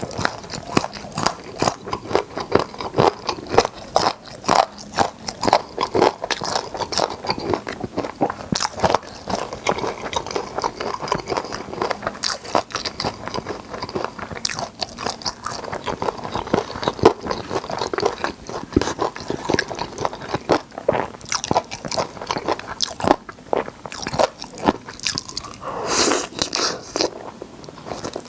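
Crispy fried chicken drumsticks being bitten and chewed close to the microphone: a steady run of crunchy bites and wet chewing.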